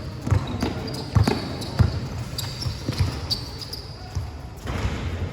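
Basketball game play: a ball bouncing on a hard court in repeated thuds, with short high squeaks and faint voices mixed in.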